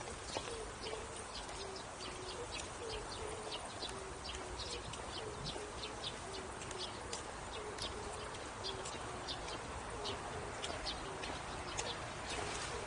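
A bird's low cooing calls, short notes repeating about twice a second and alternating between two close pitches, over the quick clicking of footsteps on a hard path.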